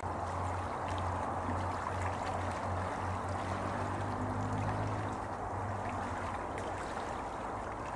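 Steady rushing of water, with a low steady hum underneath.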